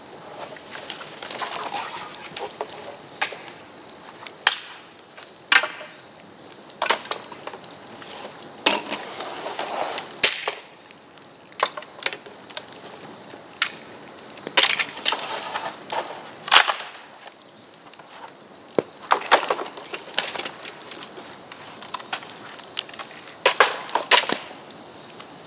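Bamboo cracking and snapping in sharp, irregular loud cracks with rustling between them. A steady high whistle is heard twice, each time for several seconds.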